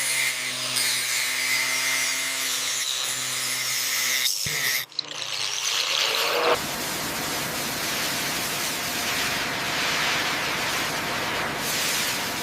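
A power tool running with a steady whine for about four and a half seconds, cutting out briefly, then giving way to a steady hissing rush that lasts to the end.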